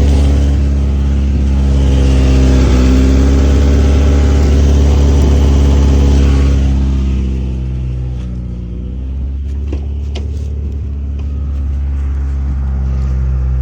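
Honda Integra engine running steadily, heard from under the car, with an exhaust leak blowing where the header meets the rest of the exhaust. A loud hiss rides over the engine note for about the first seven seconds, then drops away, leaving the quieter engine note.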